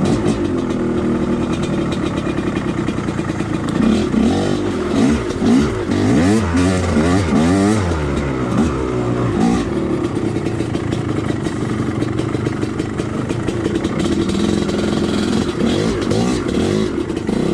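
Two-stroke dirt bike engine running under way. The revs climb and drop in repeated quick swings about four to ten seconds in, then it runs steadier.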